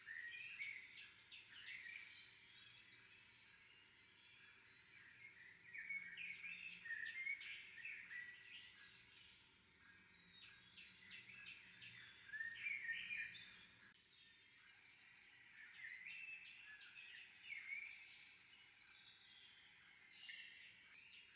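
Small songbirds singing, with phrases of quick high notes and trills repeated every few seconds.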